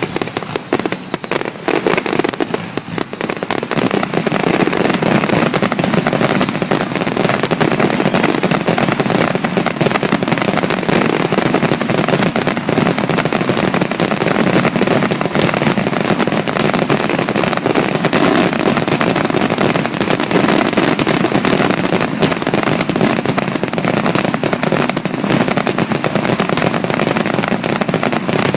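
Aerial fireworks finale: rapid, overlapping firework bursts that merge into a continuous barrage, growing denser about three seconds in.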